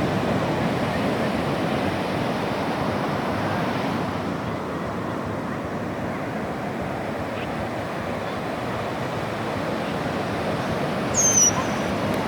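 Sea waves washing onto the shore: a steady rushing surf with a gentle swell and ebb. About 11 seconds in comes one brief high-pitched chirp.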